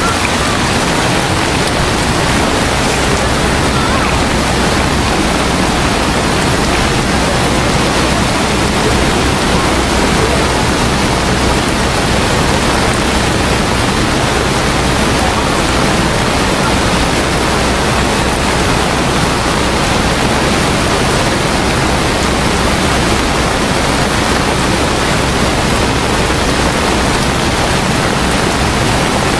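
Steady, loud rush of water with no breaks, as from torrential rain and floodwater.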